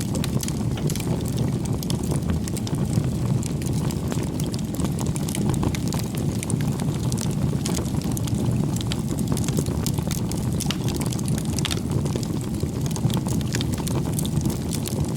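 Bonfire burning with a steady low rush of flame and a constant scatter of small crackles and pops from the burning wood.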